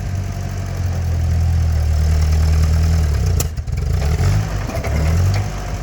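1948 Ford 8N tractor's four-cylinder flathead engine working under load with the throttle opened and the clutch let out. A single sharp knock comes about three and a half seconds in, after which the engine note wavers and eases off near the end.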